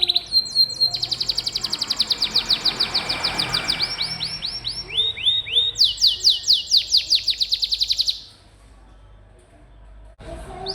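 Domestic canary singing long rapid trills, each a fast run of repeated high notes, switching between several trill types. The song stops about eight seconds in and starts again near the end.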